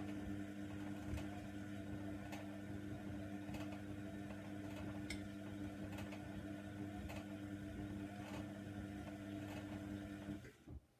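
Hoover Nextra washer dryer's motor turning the drum during the wash tumble: a steady hum with light clicks about once a second from the load, stopping about ten seconds in.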